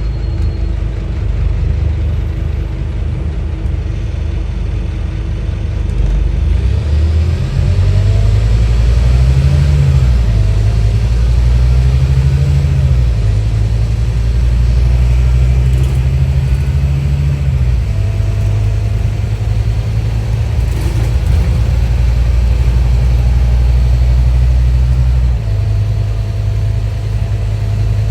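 Scania N230UD OmniDekka double-decker bus's diesel engine pulling under load. Its pitch climbs and falls several times as it works up through the gears, then it holds a steady drone. It drops back twice in the later part, around 18 s and 25 s.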